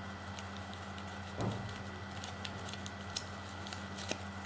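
Paper being handled and folded: scattered small crinkles and clicks of creasing, with one soft thump about a second and a half in, over a steady low electrical hum.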